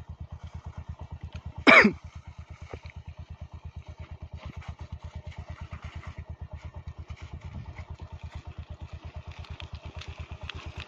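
Royal Enfield motorcycle engine running at low revs with an even, rapid beat as the bike is ridden slowly toward the camera. A brief shout comes about two seconds in.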